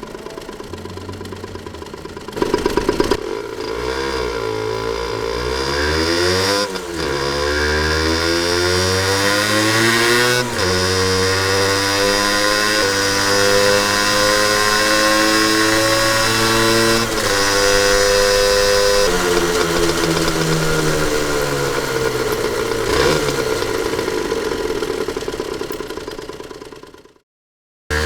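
Honda NS-1's single-cylinder two-stroke engine revving and accelerating, its pitch climbing and dropping back at each gear change, then holding steady before falling away as the bike slows. A sharp blip comes about two seconds in, and the sound fades out near the end.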